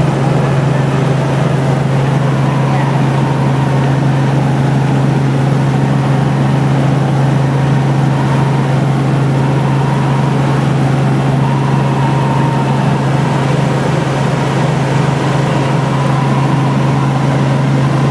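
Helicopter in flight heard from inside the cabin: a loud, steady drone of engine and rotors with a strong low hum, unchanging throughout.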